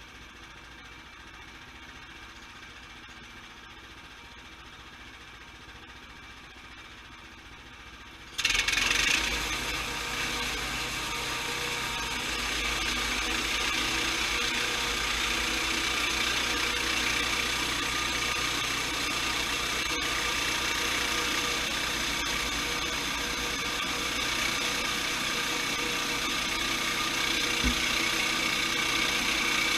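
Sawmill engine running steadily and fairly quietly. About eight seconds in it abruptly becomes much louder, with a harsh, steady mechanical din that carries on.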